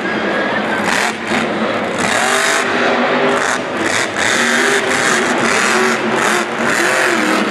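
Grave Digger monster truck engine revving hard in repeated bursts. The pitch climbs and falls as the throttle is blipped, with brief lifts about a second in, around the middle and again near the end.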